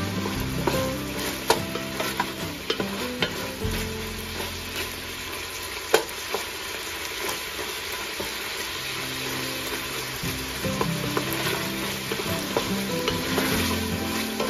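Crumbled Italian sausage sizzling as it browns in oil in a stainless steel pot, stirred and scraped with a wooden spatula. Scattered clicks of the spatula against the pot, the loudest a sharp knock about six seconds in.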